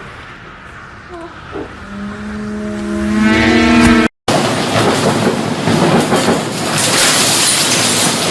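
Strong wind rushing and buffeting the microphone, loud and steady, starting abruptly about four seconds in. Before it there is a fainter rushing noise and a steady held tone that grows louder.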